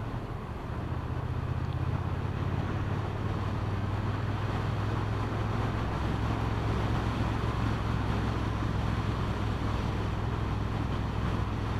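Motorcycle engine running steadily under way, with wind rushing over the microphone. The engine note firms up about a second in and then holds steady.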